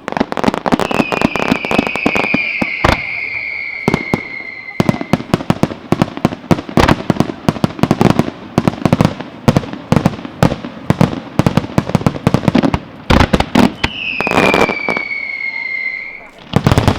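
Aerial fireworks display: a dense, rapid barrage of bangs and crackles. Two long whistles ride over the barrage, each falling slowly in pitch, one starting just under a second in and one near the end.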